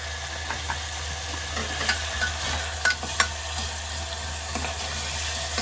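Chopped tomatoes and green chillies sizzling steadily in ghee in an aluminium pressure cooker while a metal spoon stirs them, clinking and scraping against the pot a few times around the middle.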